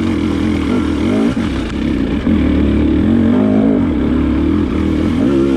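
Trail motorcycle engine revving up and down as it is ridden up a rough, rocky lane.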